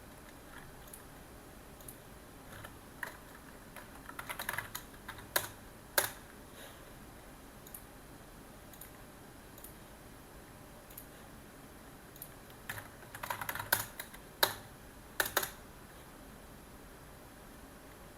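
Typing on a computer keyboard in two short bursts of rapid keystrokes, each ending in a few harder single strikes, with scattered single taps between.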